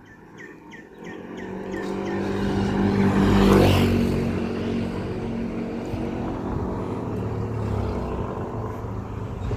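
A motor vehicle approaches and passes close by, its engine and tyres loudest about three and a half seconds in, then its engine keeps running steadily. A bird gives a quick series of short chirps in the first couple of seconds.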